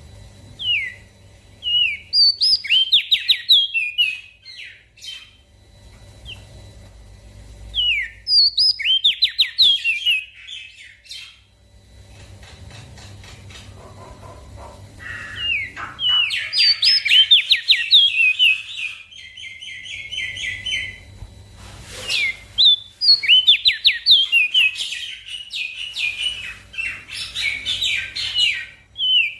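Small songbird singing phrases of quick, high sweeping chirps and trills, several outbursts separated by short pauses, over a faint low hum.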